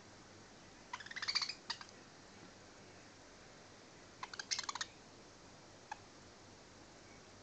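Budgerigars making two short bursts of rapid clicking, chirpy sounds, about three seconds apart, and one lone click a little later.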